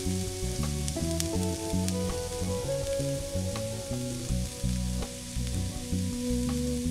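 Masala sizzling in a tiny metal kadai while a small spoon stirs it, with light clicks of the spoon against the pan, under background music.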